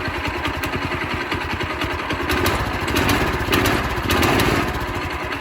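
Predator 212cc single-cylinder engine running just after its first start, with even firing pulses and two brief rises in speed and loudness around the middle.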